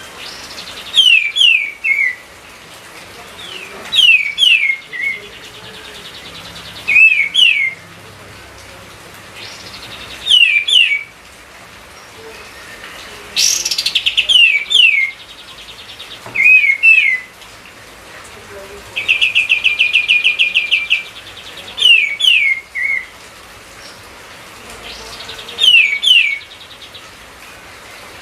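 Streak-eared bulbul singing an agitated, full-voiced song of the kind used as a lure: a short phrase of quick, falling whistled notes repeated about every three seconds, with a longer rapid chattering trill twice, about 13 and 19 seconds in.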